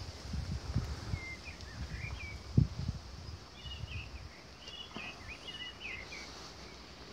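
Small birds chirping and twittering, with a run of quick chirps about halfway through. Under them a gusty low rumbling for the first four seconds or so, with one sharp thump about two and a half seconds in.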